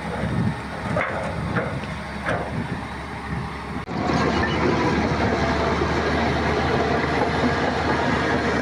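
Heavy earthmoving machinery at work: diesel engine running with clanking and rattling metal. A few sharp clanks come in the first few seconds, then about four seconds in the sound turns abruptly louder and steadier.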